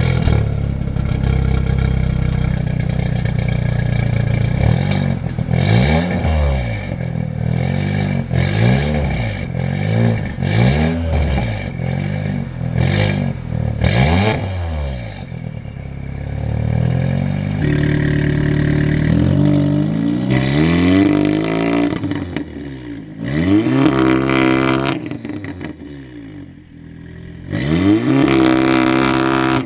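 Audi S3's turbocharged 2.0-litre four-cylinder exhaust, run through a resonator delete and aftermarket downpipe, shortly after a cold start. It idles at first, is blipped in a quick string of about eight revs, settles, and then takes three longer revs near the end.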